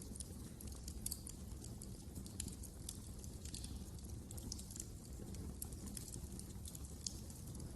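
Wood fire burning in a fireplace, with frequent irregular sharp crackles and pops over a soft low rumble of the flames.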